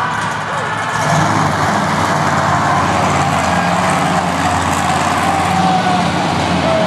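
Monster truck engine running loud and steady, getting a little louder about a second in.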